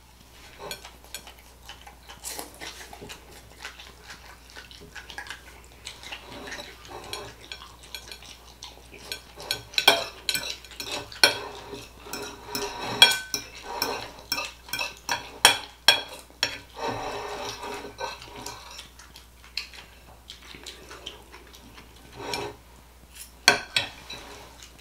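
Cutlery clinking and scraping against a plate of chicken and rice: irregular sharp taps, busiest in the middle, with a longer scrape about two-thirds through.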